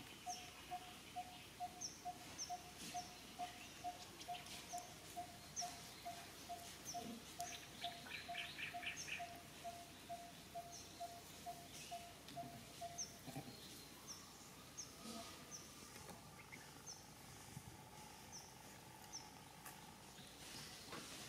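Birds calling: a run of evenly spaced mid-pitched notes, about two to three a second, that stops about halfway through, with short high chirps every second or so and a brief rapid trill about eight seconds in.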